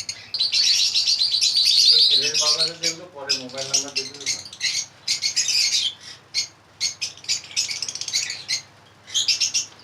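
Many lovebirds chirping in their breeding cages: a dense chatter of short high chirps, loudest in the first two seconds.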